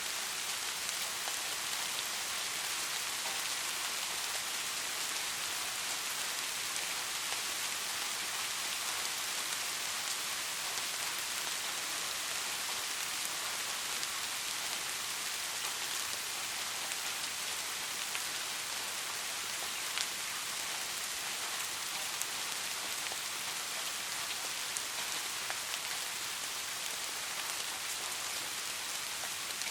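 Steady soft rainfall, a continuous hiss with scattered individual drop ticks.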